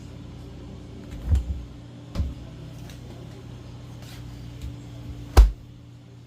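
Three dull knocks from repair work on a Samsung commercial refrigerator's fallen door, the last and loudest near the end, over a steady low hum.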